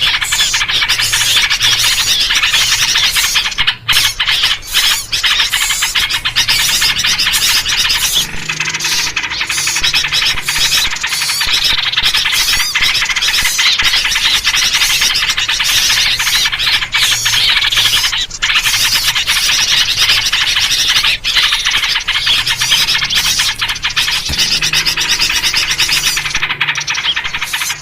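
Dense, unbroken chatter of many small birds calling agitatedly: a 'noisy birds' lure recording built around yellow-vented bulbul (trucuk) calls, played to attract wild birds.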